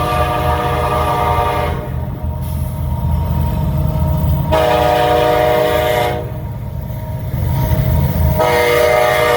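EMD SD70MAC locomotive blowing its Nathan K5LA multi-chime air horn in long blasts: one ends about two seconds in, one runs from about the middle for a second and a half, and another starts near the end. Under the horn, the locomotive's two-stroke V16 diesel works at full throttle in notch 8, a steady low rumble together with the train rolling over jointed rail.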